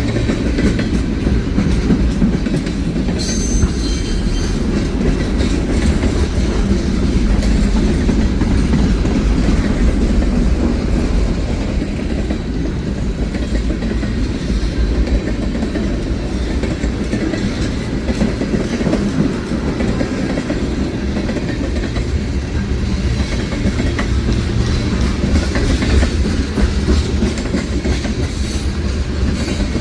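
Freight train cars rolling past at a steady pace: a continuous low rumble of wheels on rail, with a brief higher-pitched sound about three seconds in.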